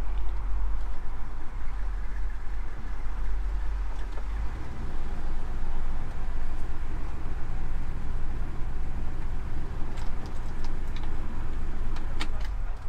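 1957 Chevrolet Bel Air's engine running at low speed as the car idles and creeps along in a queue, heard from inside the car. The low rumble changes a few seconds in, and a few sharp clicks come near the end.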